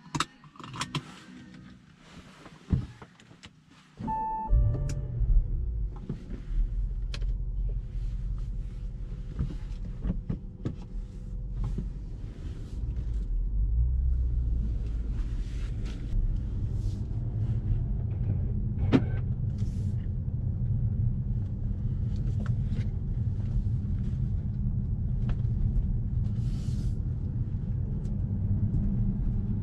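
Audi S6 C7's 4.0 TFSI twin-turbo V8 starting up about four seconds in with a loud flare, then settling into a low, steady rumble as the car pulls away at low speed, heard from inside the cabin. A few light clicks come before the start.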